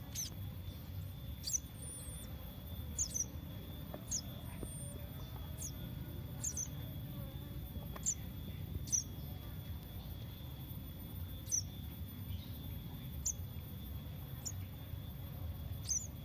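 A baby bird's short, high-pitched chirps, about a dozen at irregular intervals, typical of a nestling begging for food as it is fed crickets. A steady low rumble runs underneath.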